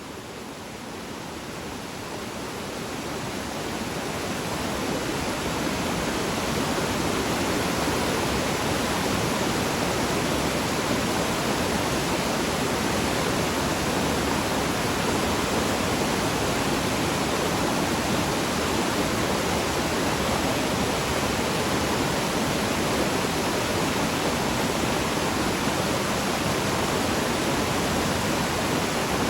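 Waterfall rushing, a dense steady roar of falling water that grows louder over the first several seconds and then holds steady.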